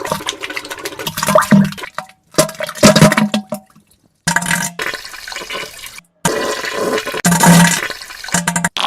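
A run of spliced fart and diarrhea sound effects: about four clips, each a short low buzzing blast followed by wet spattering, with abrupt cuts to dead silence between them.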